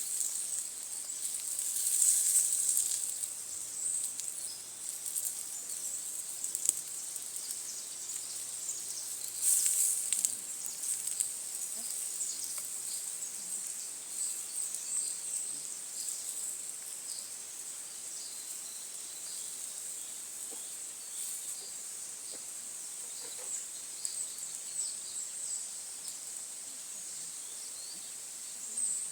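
Forest insects chirring steadily at a high pitch, with two louder bursts of noise about two seconds in and again near ten seconds.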